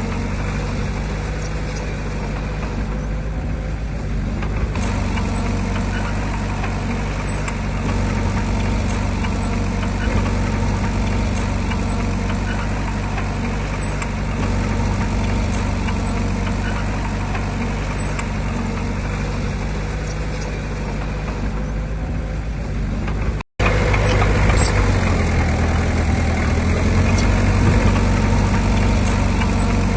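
Heavy diesel engine of earthmoving equipment running steadily. The sound drops out for a split second about 23 seconds in, and the engine is a little louder after it.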